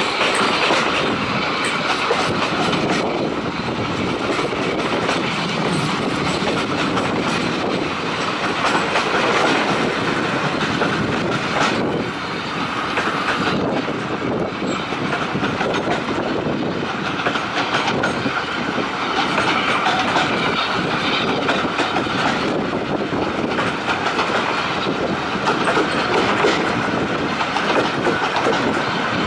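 Heritage railway carriage running along the track, heard from an open window: a steady rumble of wheels on the rails with the clickety-clack of rail joints.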